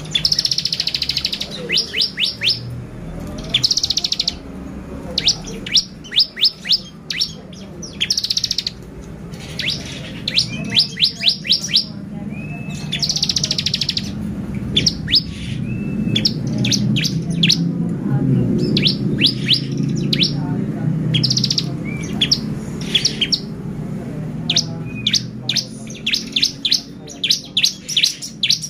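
Bar-winged prinia (ciblek) singing: repeated short bursts of rapid high, sharp notes and buzzy trills, a second or two apart, with a few short rising whistles. A low steady background hum runs underneath.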